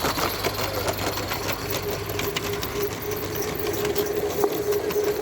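Roundhouse Lady Anne live-steam garden-railway locomotive running, its exhaust beats and running gear making a rapid, even ticking, with a steady tone joining in about a second and a half in.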